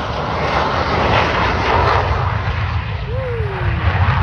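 Jet fighter roar from a landing aircraft passing the viewing area, loud at first and fading away over the second half, over a heavy low rumble of wind on the microphone.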